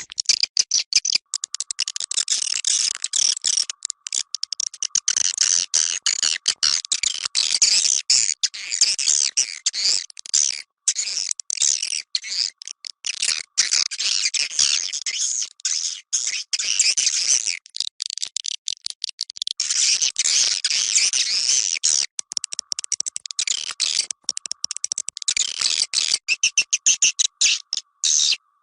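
Recorded swiftlet calls, the kind of lure sound played to draw swiftlets into a bird house: a dense, continuous twittering of many high chirps. It breaks off for an instant many times, and a faint steady tone sits beneath it at times.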